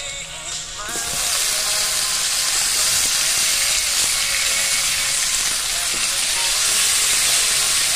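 Sliced tomatoes dropped into hot oil and browned garlic in a wok. A loud, steady sizzle starts suddenly about a second in and holds.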